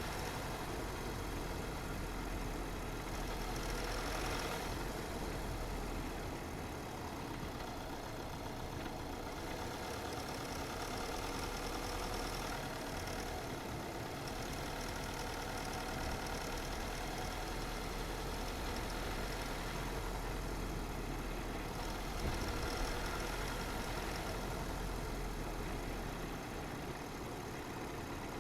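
A car driving steadily along a road: an even hum of engine and tyre noise with a low rumble underneath, swelling slightly now and then.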